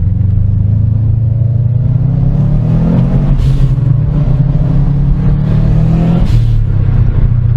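Car engine accelerating hard, its pitch climbing through two gears with a shift about halfway and another near the end, each marked by a short hiss as the revs drop.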